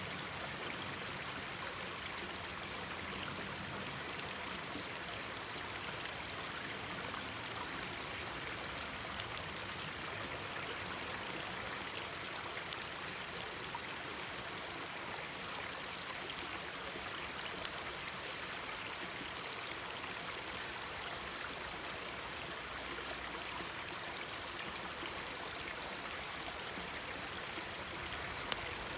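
Mountain stream running with a steady, even murmur, with a few sharp pops from a crackling bonfire, the loudest a little under halfway through and another near the end.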